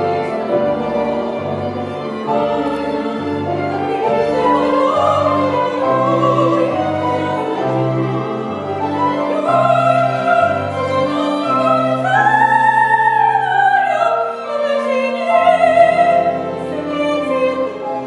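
Operetta duet sung in a classical operatic style with vibrato, over an instrumental ensemble with a steady pulsing bass line; a long high held note comes about two-thirds of the way through.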